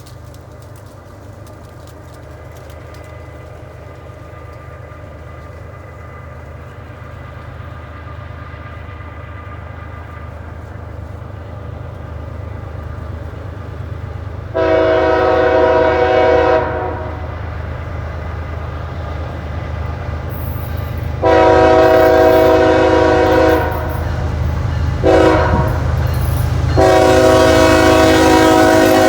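CSX freight locomotive approaching, its diesel rumble growing louder, then sounding its air horn for the grade crossing: two long blasts, a short one, and a long one that is still going at the end.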